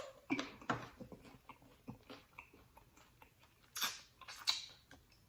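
Close-miked chewing and wet mouth noises from eating seafood boil, with scattered small clicks and a few louder smacks near the middle.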